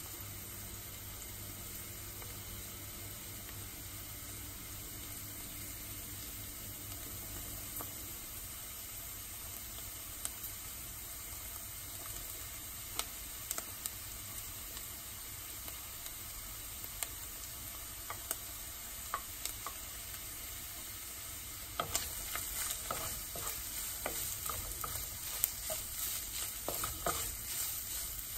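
Chopped onion and garlic sizzling steadily in oil in a nonstick wok, with a few scattered pops. Near the end a wooden spatula starts stirring, adding a busy run of scrapes and clicks as it turns the shredded chicken.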